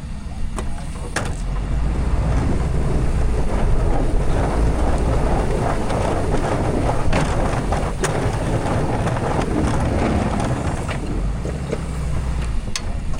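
Diesel pickup truck running and driving, its low engine rumble under a steady rushing noise that grows louder about a second and a half in, with a few sharp clicks.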